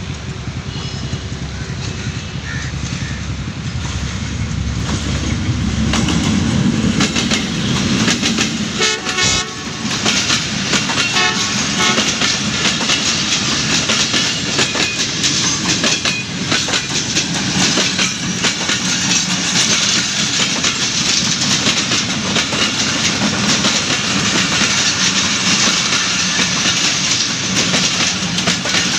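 ZCU-30 diesel-electric locomotive approaching with a low engine rumble that swells over the first several seconds, a brief horn blast about nine seconds in, then a long rake of passenger coaches passing close by, wheels clattering steadily over the rail joints.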